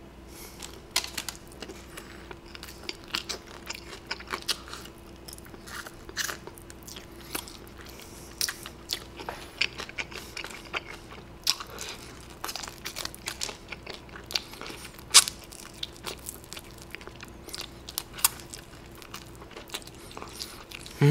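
Close-miked biting and chewing of crispy fried chicken: irregular crisp crunches and wet chewing clicks, some louder bites standing out, over a faint steady hum.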